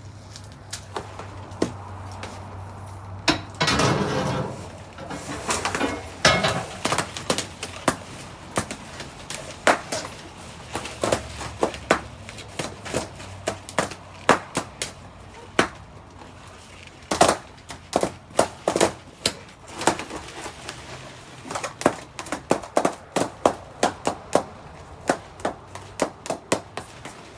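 Balloons popping one after another: dozens of sharp pops at an irregular pace, often in quick runs of several in a row.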